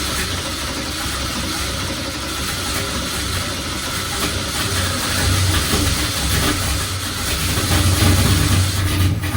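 Freshly built drift car engine turning over on the starter for its first start, getting louder about halfway through as it begins to catch, then dropping off just before the end.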